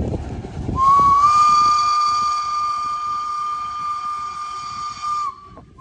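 Steam locomotive's whistle blowing one long, steady blast of about four and a half seconds, rising slightly in pitch as it opens and then holding, after a short burst of rumbling noise at the start.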